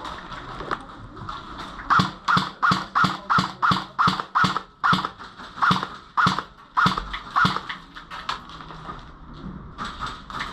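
Running footsteps, about three strides a second, starting about two seconds in, then slowing and fading after about seven seconds.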